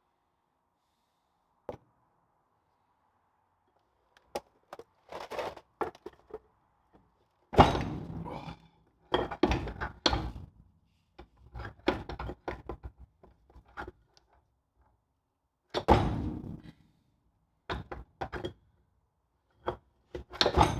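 Metal parts being handled and knocked on a workbench: scattered clinks and knocks, with two heavier thuds, one a little over a third of the way in and one past the middle.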